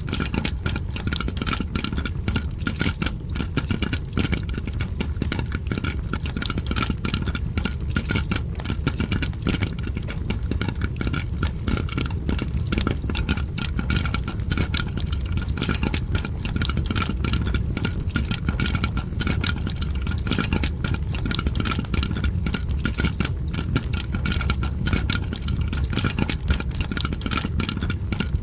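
Popcorn popping and a fire crackling together: a dense, continuous run of sharp pops and crackles over a steady low rumble.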